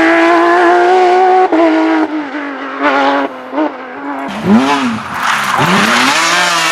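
Porsche 911 GT3's flat-six engine at high revs, accelerating, then lifting off about a second and a half in. Short rev blips and sharp rises and falls in engine pitch follow through the middle as it slows and changes down, then the revs climb steadily again under full throttle near the end.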